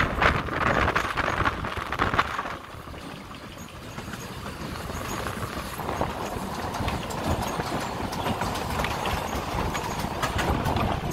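Puffing Billy narrow-gauge train running along the track, heard from inside an open carriage: a steady rumble with the wheels clattering over the rails. The noise drops suddenly about two and a half seconds in, then slowly builds again.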